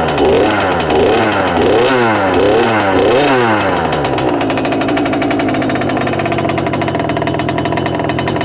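Small 50cc two-stroke dirt bike engine of a LEM RX3, revved in several quick throttle blips that rise and fall in pitch, then settling to a steady idle after about four seconds.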